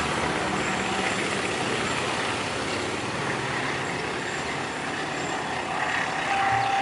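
Train running with a steady, even rumble, with a faint high squeal near the end.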